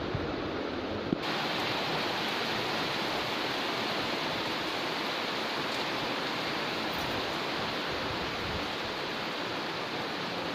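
Heavy rain falling steadily, a dense even hiss. About a second in there is a small knock and the hiss turns brighter.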